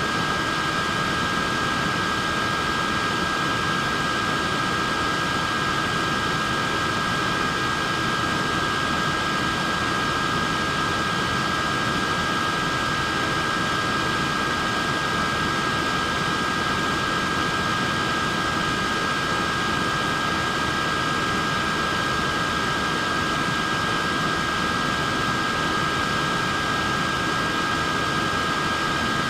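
Portable neck fan running steadily: an even rush of air with a steady high-pitched motor whine over it.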